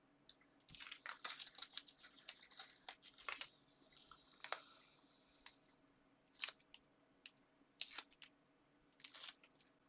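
Paper crinkling and rustling as adhesive foam pads are peeled from their backing sheet and applied to card toppers, with three sharp crackly snaps in the second half.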